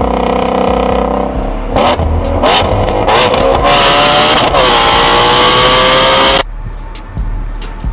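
Car engine revving through a loud aftermarket exhaust: a steady note, then several quick blips about two seconds in, then a long held rev that sinks slowly and cuts off sharply.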